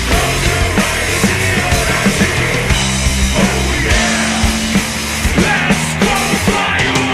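Heavy rock band playing loud: distorted guitars over a steady low bass, with frequent drum hits.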